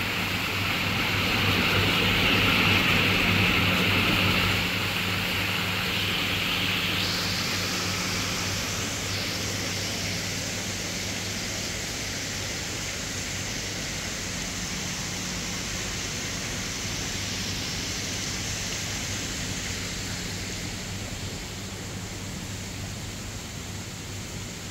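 Steady hissing outdoor noise over a low, even hum; the hiss shifts higher about seven seconds in, then slowly fades.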